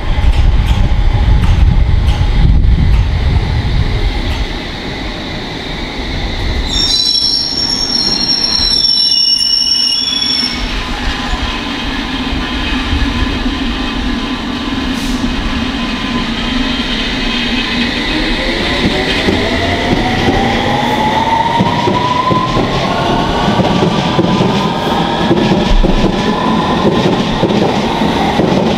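London Underground District line S7 Stock train running in with a heavy rumble, then braking to a stop with a high squeal about seven seconds in. Later, from about eighteen seconds, it pulls away, its traction motors giving a rising whine as it gathers speed.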